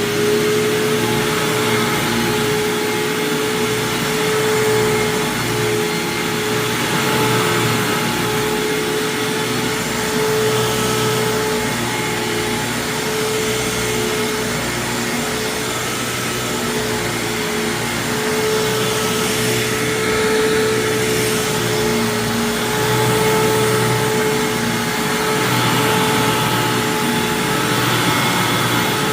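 1999 Hoover WindTunnel self-propelled upright vacuum cleaner (model U6425-900) running at full speed: a steady motor whine over a rush of air, swelling and easing slightly every few seconds.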